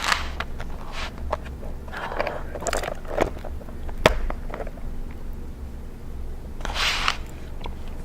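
Close-miked crunchy eating: irregular bites and chewing crunches, with a sharp crack about four seconds in and a louder crunch near seven seconds, over a low steady hum.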